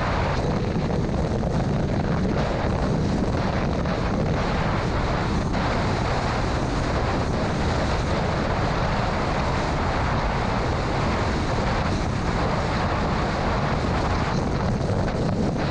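Steady rushing noise of a car driving through a severe thunderstorm: tyre and road noise mixed with wind and rain on the vehicle.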